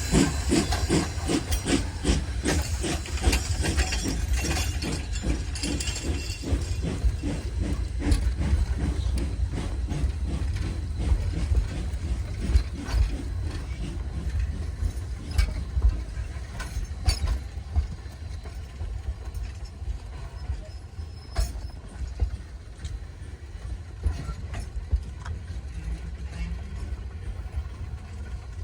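Rio Grande Southern No. 20, a narrow-gauge steam locomotive, working with fast, regular exhaust chuffs that fade as it moves off over the first ten seconds or so. After that come scattered clanks and squeaks of the moving train over a steady low rumble.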